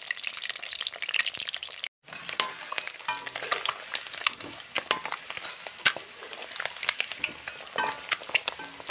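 Whole boiled eggs frying in hot oil in a metal kadai: a steady sizzle with crackling pops, and a steel ladle scraping and clinking against the pan as the eggs are turned to brown them. The sound cuts out briefly about two seconds in.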